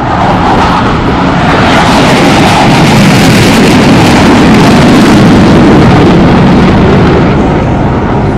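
Royal Netherlands Air Force F-16 fighter jet passing close by: loud jet engine noise that swells, peaks in the middle and eases off, its pitch dropping as it goes past.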